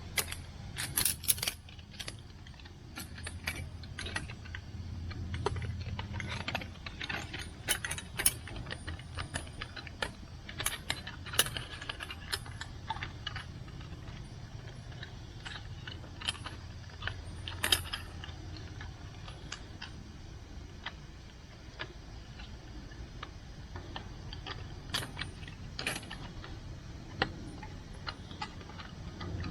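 Metal camp cookware and utensils clinking and tapping irregularly, with a low steady hum underneath.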